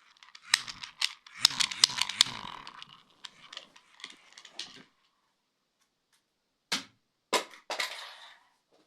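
Handling of a small cheap plastic fan: a run of sharp plastic clicks and rattling for the first few seconds, then, after a pause, three more sharp clicks with rattling.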